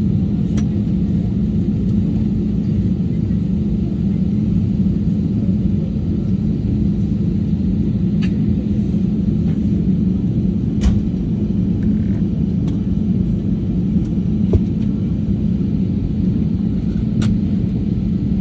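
Steady low rumble of a vehicle in motion, with a few faint clicks scattered through it.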